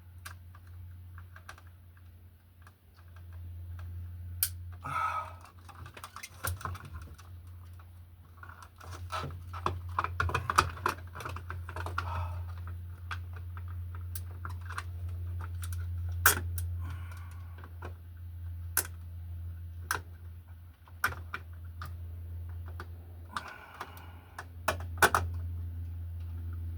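Irregular small clicks and rustles from hand work on an electrical plug and its wiring, over a steady low hum.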